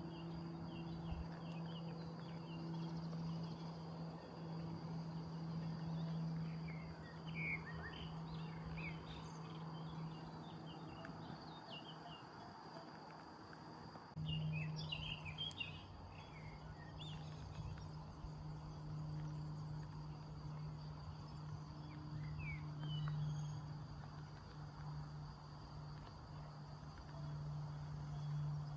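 Countryside ambience: crickets or other insects keep up a steady high trill while small birds chirp in short scattered bursts, over a steady low hum.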